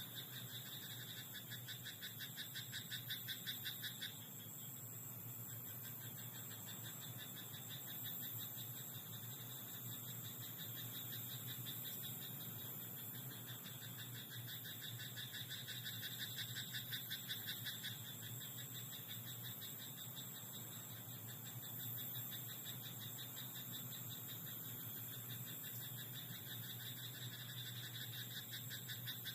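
Frogs croaking in a rice paddy at night: rapid pulsed call trains in bouts of a few seconds, coming about three times, over a steady high hiss.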